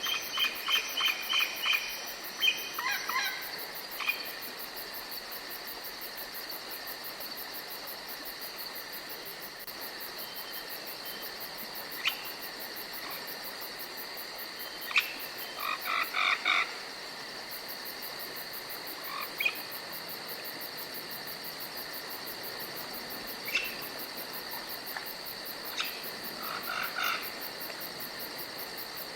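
Night forest ambience: a steady high insect drone, with short bursts of rapidly repeated chirping calls from small animals, the loudest in the first few seconds, again about halfway through and near the end, and a few single sharp chirps between them.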